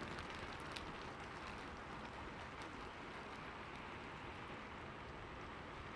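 Monsoon rain falling steadily, with a few separate drop ticks in the first second.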